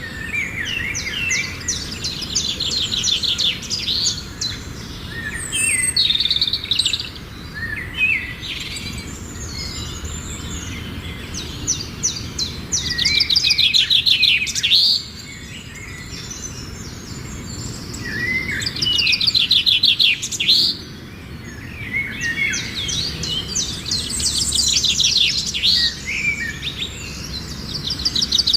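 Small finches chirping and singing, with short fast buzzy trills repeated again and again, loudest in two bursts in the middle, over a steady low background hum.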